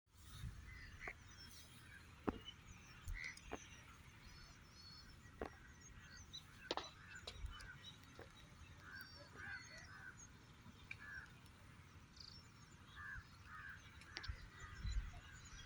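Birds calling: many short, repeated chirps over a low rumble, with a few sharp clicks.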